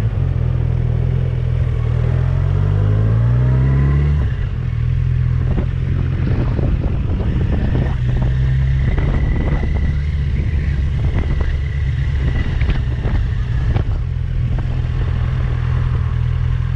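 Motorcycle engine pulling hard, its pitch rising for a few seconds, then dropping sharply about four seconds in as the revs fall. It then runs on steadily, with a string of sharp clicks and knocks through the middle.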